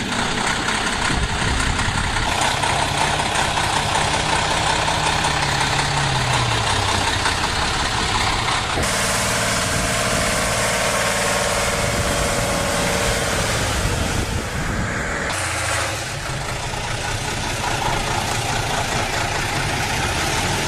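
Heavy truck engines running, in several clips cut together, so the sound changes abruptly about 2, 9 and 15 seconds in. Between about 4 and 7 seconds in, one engine's pitch falls.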